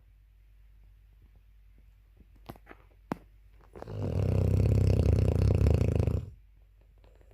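Dogue de Bordeaux puppy snoring: one long, loud snore starting about four seconds in and lasting about two and a half seconds, after a couple of faint clicks.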